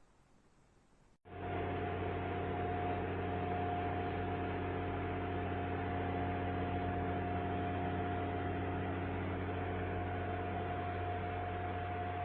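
Steady electrical or mechanical hum with hiss and one constant whining tone, cutting in abruptly about a second in and holding level.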